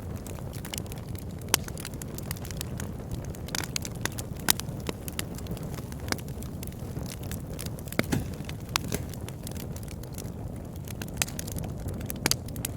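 Fire burning in a fireplace: a steady low rumble of flames under irregular sharp crackles and pops, a few of them loud.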